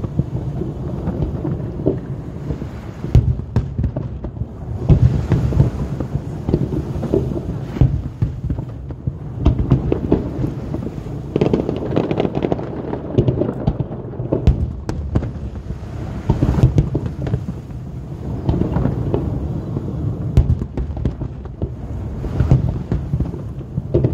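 Aerial fireworks bursting in quick succession: deep booms one after another without a break, with sharp crackles among them, recorded on a phone's microphone.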